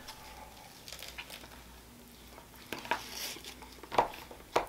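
A person quietly chewing a mouthful of gyro sandwich, with a few short wet mouth clicks in the second half.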